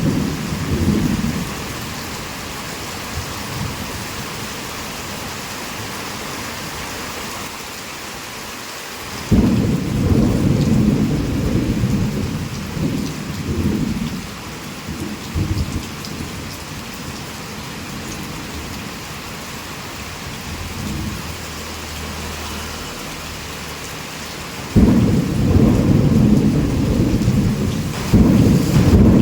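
Heavy rain falling steadily, with rolls of thunder rumbling low. One roll starts suddenly about nine seconds in and fades over several seconds, and another breaks in near the end.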